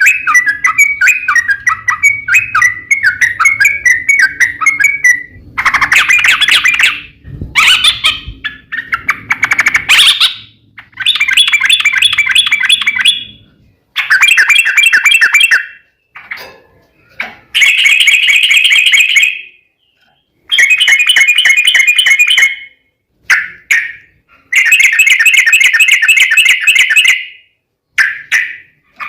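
Yellow-vented bulbul (trucuk) song: a warbling phrase at the start, then a string of loud bursts of fast chattering trills, each one to three seconds long, broken by short silences and cut off abruptly like an edited lure recording.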